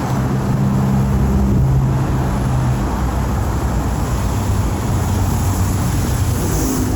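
Street traffic: a motor vehicle engine humming close by, fading after about three seconds, over a steady rumble of road traffic.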